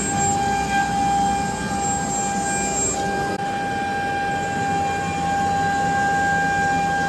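CNC router running: a steady high whine from the 5.5 kW water-cooled spindle over the even rush of the 5.5 kW air-cooled vacuum pump.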